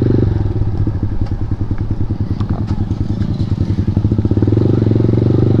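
KTM Duke 390's single-cylinder engine running through an Akrapovic exhaust with the dB killer removed. About a quarter second in it drops to a pulsing idle, and it picks up to a fuller, steadier note near the end.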